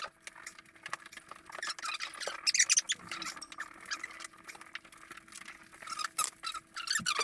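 Cloth wiping and scrubbing a fridge shelf: irregular squeaky rubbing strokes, busiest about two and a half seconds in and again near the end.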